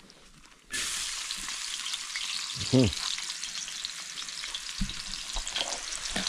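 Onion and garlic hitting hot oil in a cooking pot, breaking into a loud sizzle less than a second in and frying steadily from then on.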